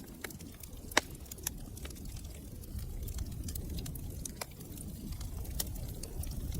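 Wood fire crackling in a fireplace: scattered snaps and pops over a low rumble of burning, with one sharp pop about a second in.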